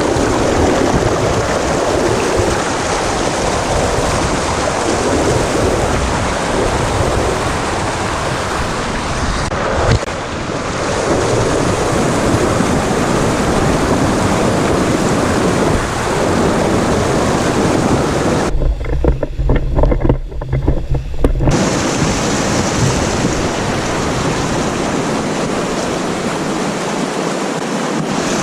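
Rushing river water around a kayak, a loud steady roar of whitewater. For about three seconds past the middle the sound turns muffled and low, with an uneven rumble.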